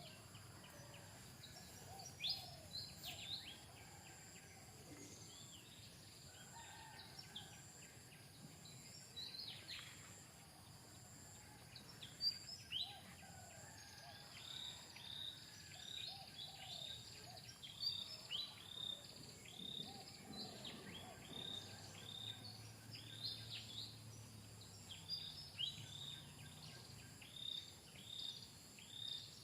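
Faint forest ambience: a steady high insect drone, with short, falling high-pitched chirping calls repeated about once or twice a second that become more frequent after about halfway.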